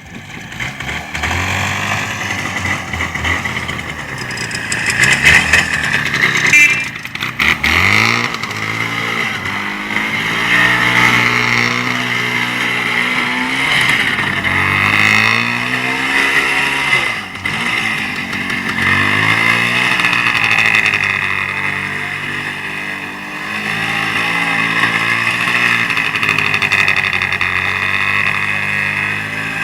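Motorcycle engine running and being revved up and down several times, its pitch climbing and dropping again. A few sharp clicks come about six to seven seconds in.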